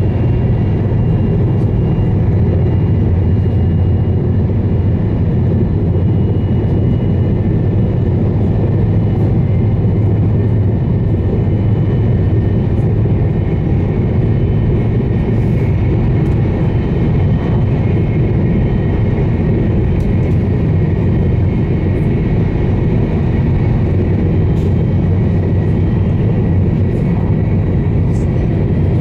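Running noise of a JR East E2 series 1000 Shinkansen at speed, heard inside the passenger cabin: a steady deep rumble of wheels on track, with a faint high whine held over it.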